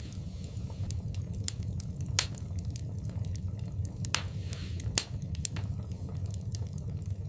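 Wood fire burning in a fireplace, crackling with scattered sharp snaps and pops over a steady low rumble. Two louder pops come about two and five seconds in, and there is a brief hiss just after four seconds.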